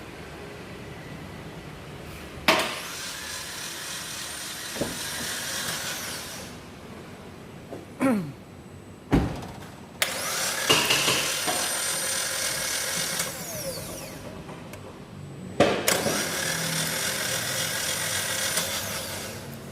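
Three long bursts of hissing compressed air, a few seconds each, typical of a workshop air blow gun. A few sharp knocks and clanks come between the bursts.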